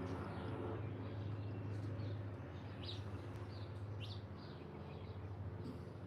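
Small garden birds chirping, a few short high notes about three and four seconds in, over a steady low hum.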